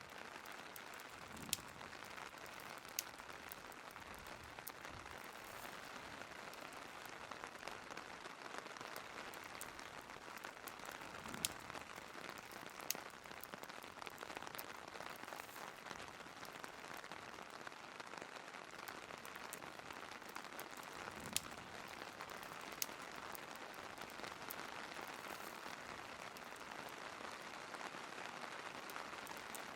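Steady hiss of rain with sharp crackles from a wood fire, which come in pairs about every ten seconds.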